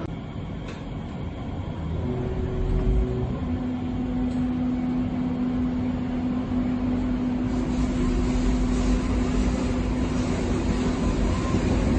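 Berlin U-Bahn train running between stations, heard from inside the carriage: a steady rumble of wheels on the rails with a steady humming tone from the drive that sets in a few seconds in, the whole gradually getting louder.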